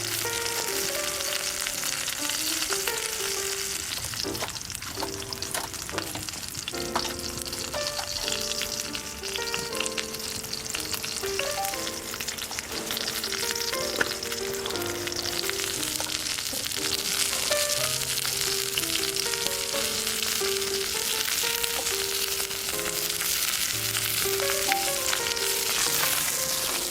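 Food sizzling steadily in a hot pan over a campfire, with a light melody of background music underneath.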